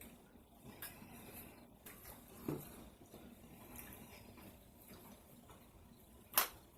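Quiet eating sounds at a table: faint chewing and small scattered clicks, with one sharp click near the end.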